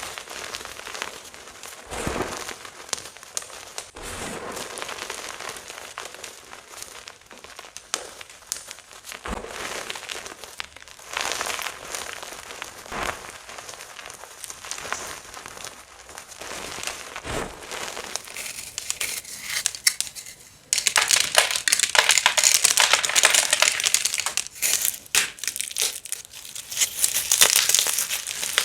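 Blocks of gym chalk being crushed and crumbled, a dense, irregular crunching and crackling. About two-thirds of the way through, the crunching turns abruptly much louder and denser.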